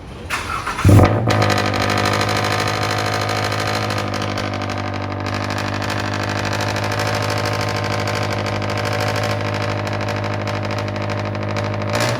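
2022 GR86/BRZ 2.4-litre flat-four starting through a straight-piped exhaust with an unequal-length header. It flares loudly about a second in as it catches, then settles into a steady, loud idle.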